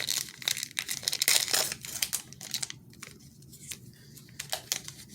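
A baseball card pack's wrapper being torn open and crinkled, loud for the first two and a half seconds, then softer rustling with a few light clicks.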